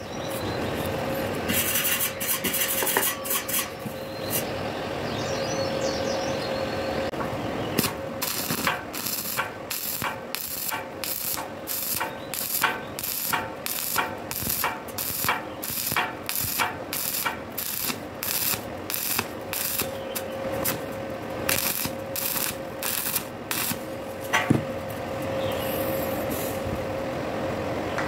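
Stick (arc) welding on thin square steel tube: the electrode's arc crackles and sizzles, over a steady hum. Through the middle stretch the crackle comes in regular bursts about twice a second.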